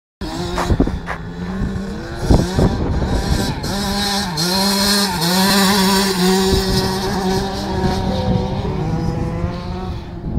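Motocross bike engine running at steady high revs, its pitch dipping briefly twice as the throttle is eased, with a few sharp knocks in the first couple of seconds.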